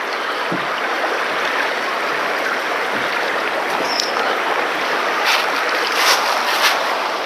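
Steady sound of flowing stream water, an even hiss with no pitch, with a few short clicks between about five and seven seconds in.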